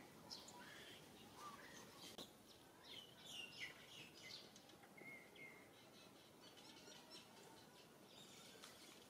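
Faint outdoor ambience with scattered small birds chirping, the short high chirps coming mostly in the first half.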